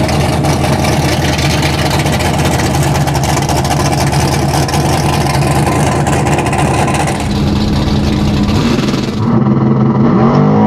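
A drag-race Mercury Cougar's engine running loud and steady while staged at the starting line. Near the end the engine revs up with a rising pitch.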